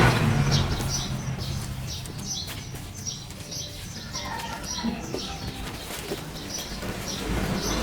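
Small birds chirping in short, repeated high calls, two or three a second, over a low rumble that fades within the first second.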